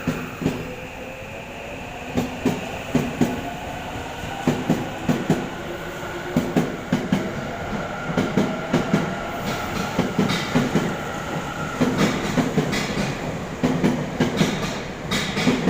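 Tokyo Metro 8000-series electric train pulling out of the station. The motor whine climbs steadily in pitch as it gathers speed, over a regular clickety-clack of wheels crossing rail joints.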